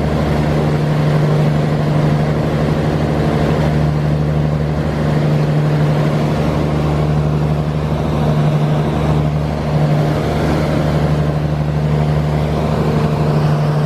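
Boat engine running steadily, a continuous low drone with a constant rushing noise over it.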